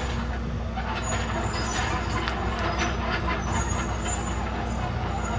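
Komatsu D31PX crawler bulldozer's diesel engine running steadily, with scattered short clicks and rattles over the drone.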